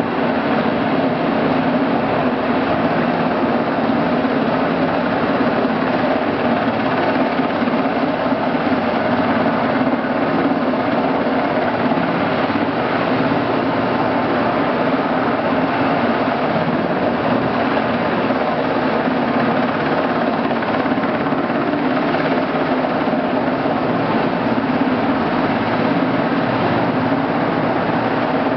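US Coast Guard Sikorsky Jayhawk helicopter's twin turbine engines and rotor running steadily at a constant pitch.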